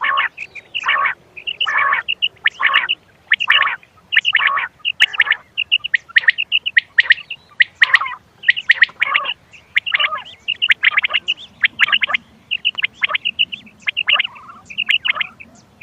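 Quail calls from a hunting lure recording: short clusters of sharp, high notes repeating about once a second.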